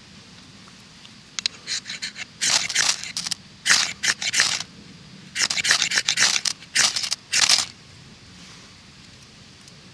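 Repeated scraping strokes in short grainy bursts, in two clusters between about one and a half and seven and a half seconds in.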